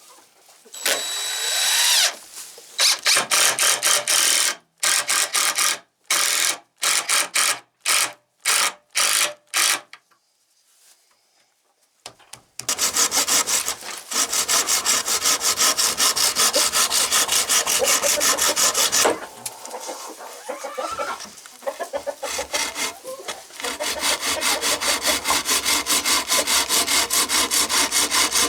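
Hand saw cutting through wood in runs of quick back-and-forth strokes, pausing about ten seconds in, then settling into a steady, even run of strokes.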